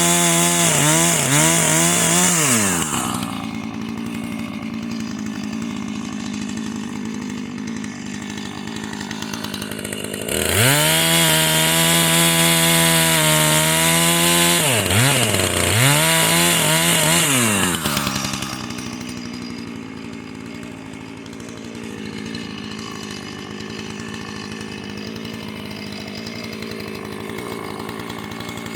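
Husqvarna two-stroke chainsaw cutting firewood. It runs at full throttle with its pitch dipping a few times as the chain loads up in the wood, and drops to idle about three seconds in. About ten seconds in it revs up again for roughly seven seconds, dipping twice more, then settles back to a steady idle.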